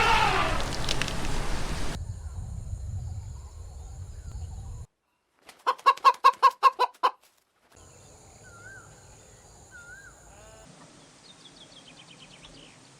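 A chicken clucking in a quick, even run of about nine clucks lasting about a second and a half, about halfway through. It is set between separate clips: a noisy stretch at the start and, near the end, faint small chirps and a quick falling run of short calls.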